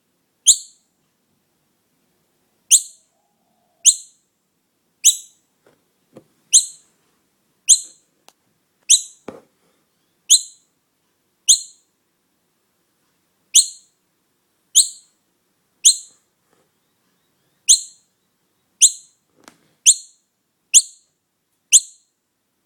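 Young noisy miner calling over and over: a short, sharp, high-pitched call about once a second, with a few pauses of around two seconds.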